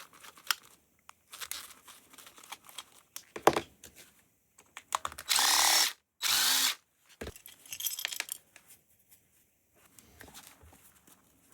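Power drill run in two short bursts, each under a second, about five and six seconds in, its motor pitch swinging as it spins up and slows: driving out the screws of a cast aluminum housing. Scattered clicks and light handling of parts around them.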